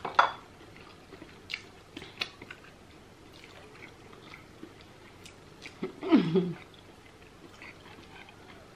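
Two people eating isi ewu (spiced goat head) with their hands: quiet chewing and lip smacking with small wet clicks scattered throughout. A short vocal sound comes about six seconds in.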